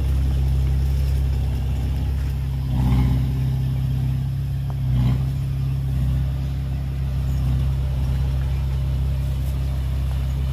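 Heavy diesel engine of earthmoving machinery running steadily, with two brief swells in engine speed about three and five seconds in.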